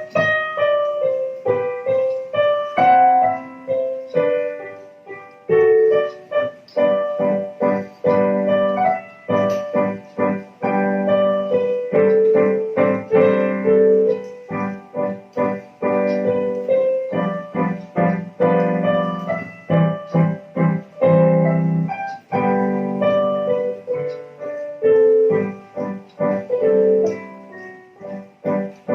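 Solo piano playing a piece: a melody of quick successive notes over sustained lower accompanying notes.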